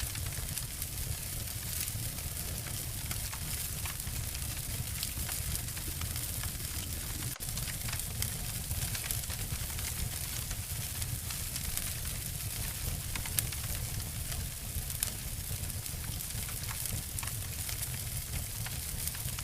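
Wood fire burning, crackling and snapping: a dense scatter of small pops over the steady low rumble of the flames, with a couple of sharper snaps about two-thirds of the way through.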